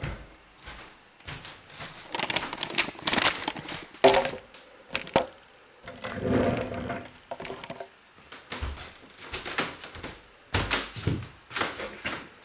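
Boxes and belongings being handled and shifted about: scattered rustling, scraping and knocks, with one sharp knock about four seconds in.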